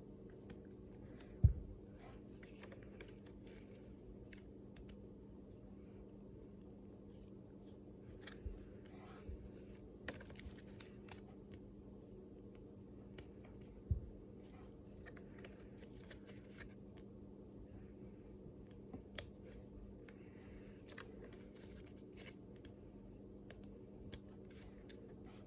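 Faint room tone with a steady low electrical hum, broken by scattered soft rustling and clicking handling noises and two soft thumps, one about a second and a half in and one about fourteen seconds in.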